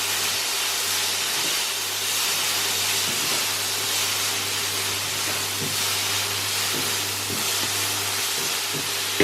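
Diced chicken breast sizzling in hot oil in a frying pan on high heat: a steady hiss, with a low steady hum underneath.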